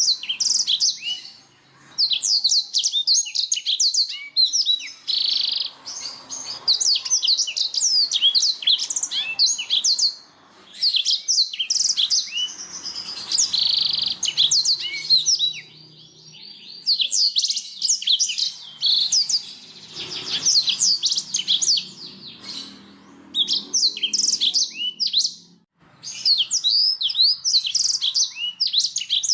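Domestic canary singing: long phrases of fast trills and rolls, broken by short pauses every several seconds.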